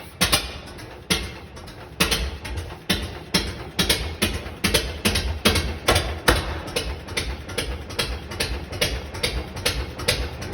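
1926 Lister X single-cylinder stationary engine starting up: a few uneven knocks, then regular firing beats that come gradually closer together as it picks up speed.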